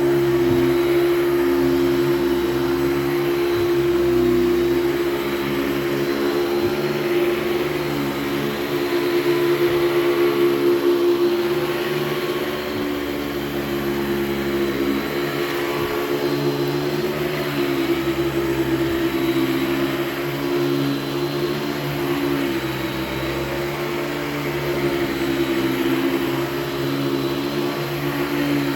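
Hoover Celebrity II Elite canister vacuum running while cleaning: a steady motor hum with a strong tone, wavering a little in pitch and loudness as the nozzle works.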